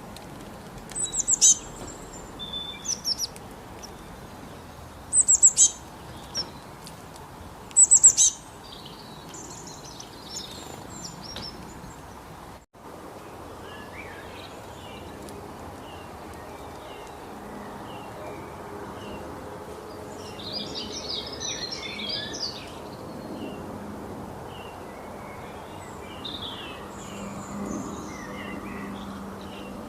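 Wild birds calling. First, loud, high, down-slurred whistled phrases come every two to three seconds. After a sudden cut, a different chorus of many short chirps and twitters follows, busiest about two-thirds of the way through.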